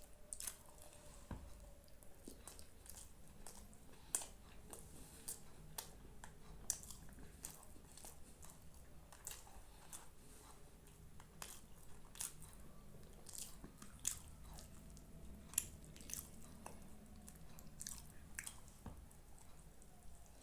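Close-miked chewing and biting of food, with many small sharp, wet mouth clicks and crunches at an irregular pace.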